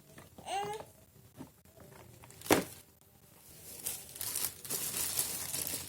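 Plastic packaging crinkling and rustling as it is handled and pulled off, densest in the second half. A single sharp knock comes about two and a half seconds in, and a short squeak that rises and falls in pitch comes near the start.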